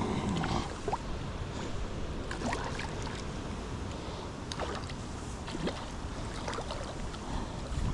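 Strong wind buffeting the microphone as a steady low rumble. Scattered short, high clicks and chirps sound over it throughout.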